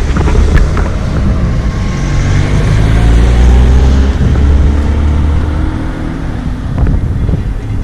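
Sailing catamaran's engine running steadily as the boat motors along, with wind buffeting the microphone.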